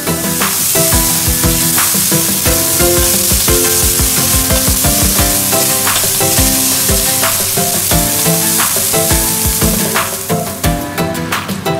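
Ground meat sizzling in a frying pan as it is stirred, a steady hiss that fades out near the end, over background music with a steady beat.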